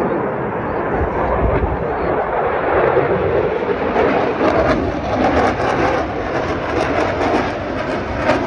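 Loud, steady roar of an aircraft in flight, with a crackling edge from about halfway through.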